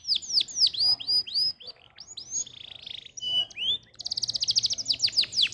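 Domestic canary singing: high trills of fast-repeated down-sweeping notes that change phrase several times. Near the middle there is a short buzzy note and a brief steady whistle, and a very rapid trill starts about four seconds in.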